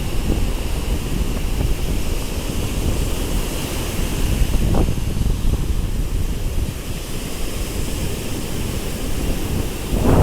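Surf washing on a beach, with wind rumbling on the microphone.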